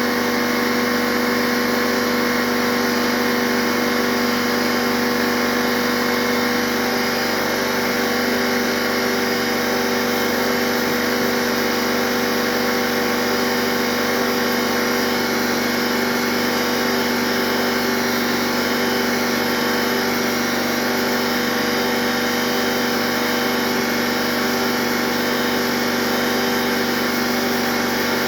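A motor running steadily at one unchanging pitch, with a hum made of several fixed tones over a noisy whir.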